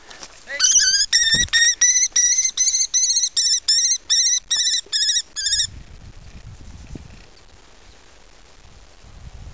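Kestrel calling a rapid, shrill kee-kee-kee series, about three notes a second for some five seconds, then stopping. Low rumbling noise follows.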